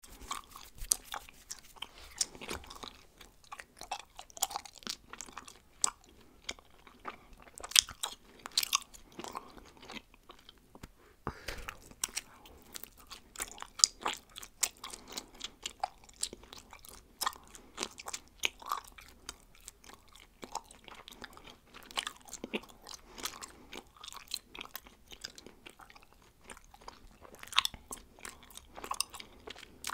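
Bubblegum being chewed close to a microphone: an irregular run of sharp mouth clicks and smacks, thinning out briefly about ten seconds in.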